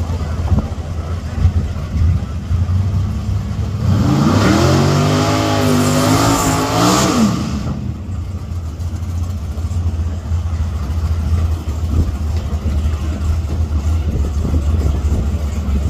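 Drag-race car engine idling with a deep, steady drone. About four seconds in it is revved for roughly three seconds, the pitch climbing and sagging, with a rushing hiss over it, then it settles back to idle.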